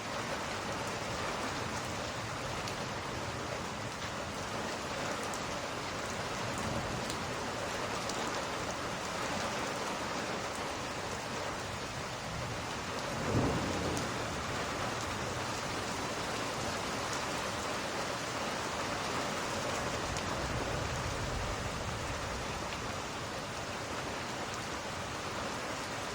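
Steady heavy rain with low thunder rumbling in the background, swelling twice. About halfway through there is one short, sharper crack, the loudest moment.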